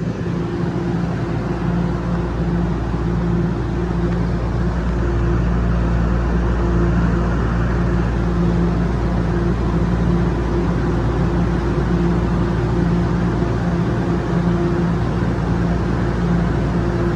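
TTC Line 1 subway train running: a steady rumble with a low, humming drone, growing a little louder over the first few seconds and then holding.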